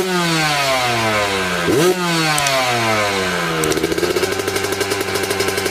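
Racing dirt bike's engine revved sharply twice, the pitch falling away slowly after each blip, then holding at a steady, pulsing note.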